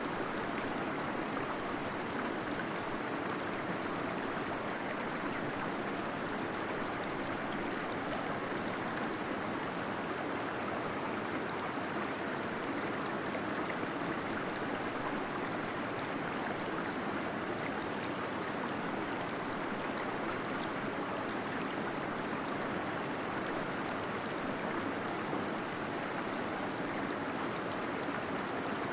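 Small waterfall inside a cave, the water falling and gurgling in a steady, even rush that neither rises nor falls.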